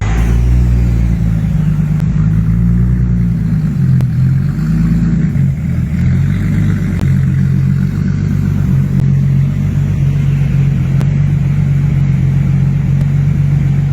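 Turbocharged Toyota Supra MKIV's inline-six running loaded on a chassis dyno. The engine note wavers in the first few seconds, then holds fairly steady.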